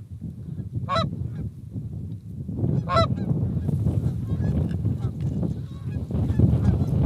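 Geese honking: two loud single honks about a second and three seconds in, then many fainter overlapping honks of a flock, over a low rumble.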